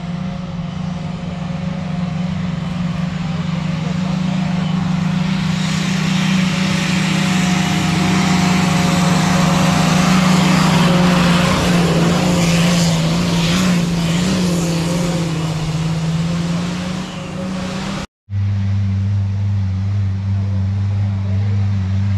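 Off-road 4x4 vehicle engine running at a steady pitch, with a rush of noise swelling in the middle, loudest between about ten and fourteen seconds in. After a sudden cut near the end, another engine runs at a lower pitch.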